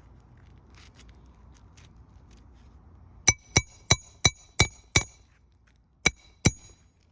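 Hand hammer driving roofing nails back into asphalt shingles: six quick ringing metallic strikes, then two more after a short pause.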